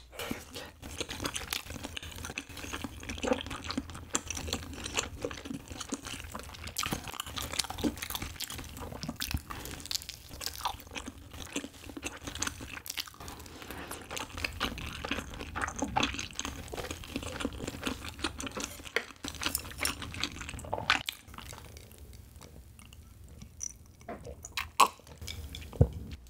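Close-up chewing of a soft, chewy cheese-filled rice cake (tteokbokki-flavoured cheese tteok), a steady run of small mouth clicks and smacks. The chewing thins out to a few faint clicks near the end.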